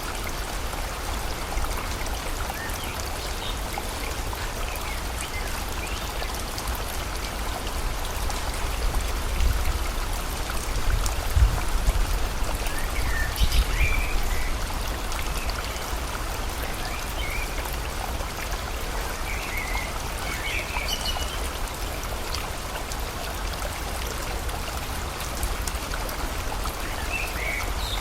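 Steady rain and a flowing river, with short bird chirps here and there. A low rumble swells up in the middle and dies back.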